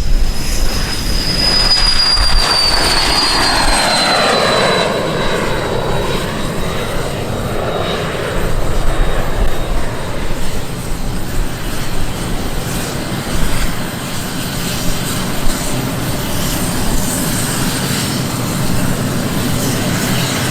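Aircraft passing by with engine noise: a high whine drops in pitch over the first few seconds, then a steady rush of engine noise follows.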